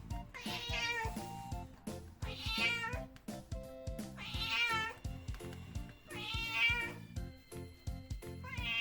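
A cat meowing repeatedly, four calls about two seconds apart, over background music.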